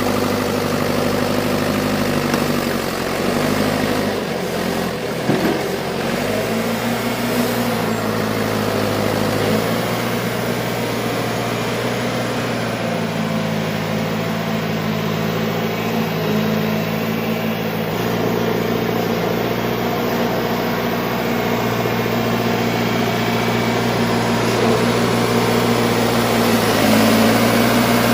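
Engine of a John Deere 410 loader backhoe running steadily, its speed shifting up and down several times and rising a little near the end.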